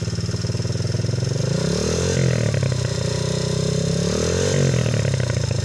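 A small dirt bike engine running, revving up and back down twice as the throttle is opened and eased off.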